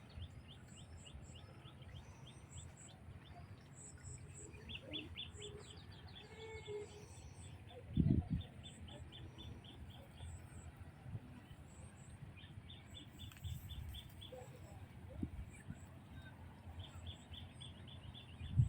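Small birds chirping in quick repeated series over a steady low rumble, with a short low thump about eight seconds in.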